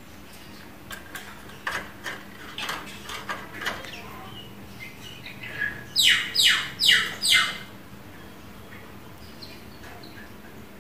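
Lovebird calling: a run of short, sharp chirps, then about six seconds in, four loud, shrill calls in quick succession, each sweeping down in pitch.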